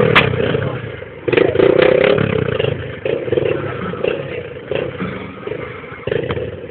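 Two motorcycles riding inside a globe-of-death cage, their engines swelling and fading as they circle, loudest about a second and a half in.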